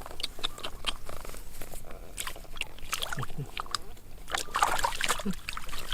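Water splashing and sloshing with irregular clicks and knocks, busiest about four and a half seconds in.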